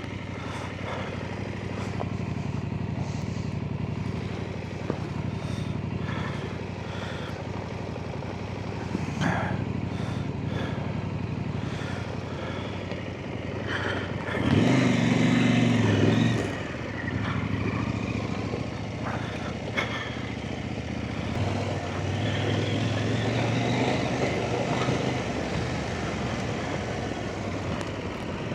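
Off-road motorcycle engines: a steady running hum, with one bike much louder as it rides past about halfway through and another rising and passing near three-quarters of the way through.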